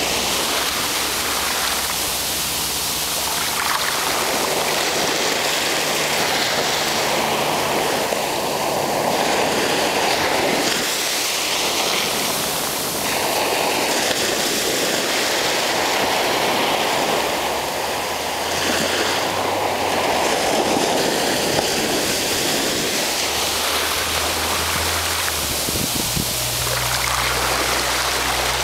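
Ocean waves breaking on the shore: a continuous rush of surf that swells and eases every few seconds.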